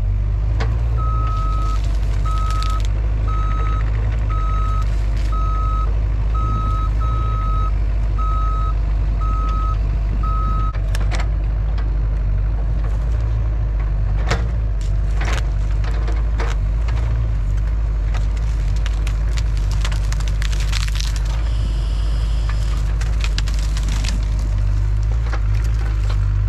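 Mini excavator's diesel engine running under load, with its reversing alarm beeping in a steady rhythm for the first ten seconds or so. After the beeping stops come sharp cracks and snaps of juniper wood as limbs are broken off the felled tree.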